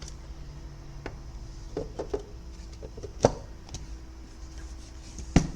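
Light clicks and knocks from handling the opened wireless speaker's parts, with two sharper knocks, one about three seconds in and one near the end, over a steady low hum.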